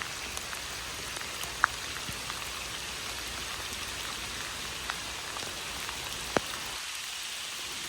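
Steady rain falling, an even hiss, with a few sharp ticks of nearby raindrops, the loudest about a second and a half in and again about six seconds in.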